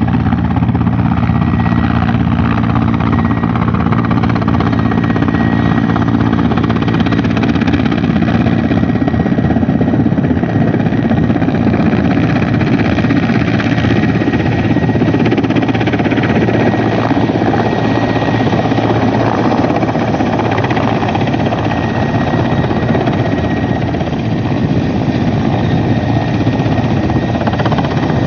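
Helicopter hovering, its rotor and engines running steadily with a thin high whine, as it takes up water from a reservoir.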